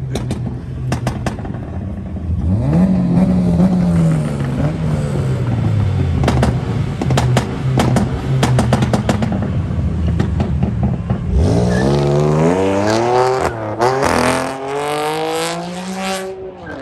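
Modified car engines revving hard, the pitch climbing and falling, with repeated sharp exhaust pops and crackles. A second, stronger rev climbs steeply about eleven seconds in.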